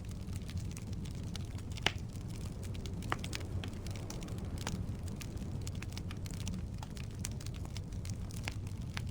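Firewood burning in a fireplace: a steady low rumble of the flames with frequent irregular crackles and pops, the sharpest about two seconds in.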